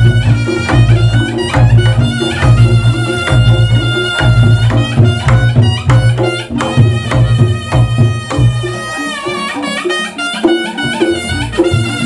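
Reog Ponorogo gamelan music: kendang drumming over a low pulsing beat about twice a second, under a wavering reed melody from the slompret. The low beat drops out for a couple of seconds near the end.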